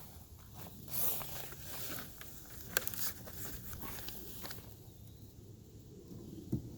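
Scattered knocks, clicks and rustling as a beehive's top cover is handled and fitted back onto the hive. The sounds grow quieter after about four and a half seconds, and there is one more knock near the end.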